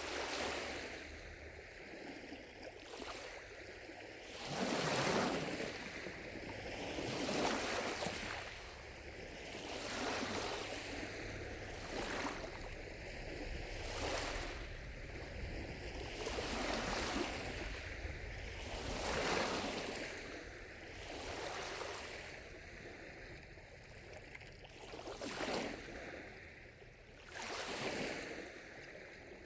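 Small lake waves lapping against the shore, a soft wash swelling and falling away every two to three seconds.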